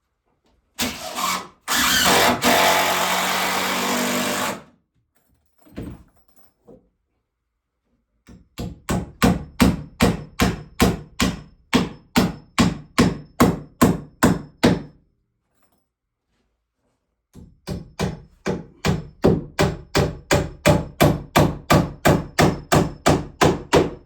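A power tool runs for about four seconds, then comes hammering on wood: two long runs of steady blows, about three a second, typical of driving nails into boards.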